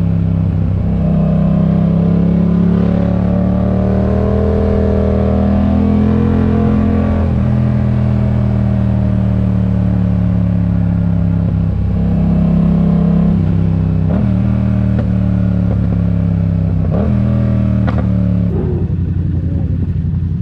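Yamaha MT-07's 689 cc parallel-twin engine through a RoadsItalia aftermarket exhaust, running steadily under way at a fairly even engine speed. Several short dips in pitch come in the second half.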